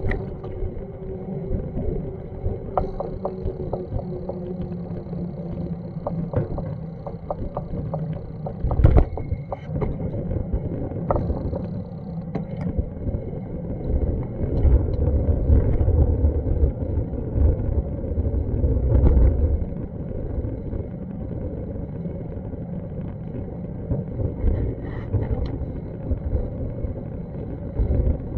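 City street ambience: a steady low rumble of traffic that swells for several seconds around the middle, with scattered clicks and knocks.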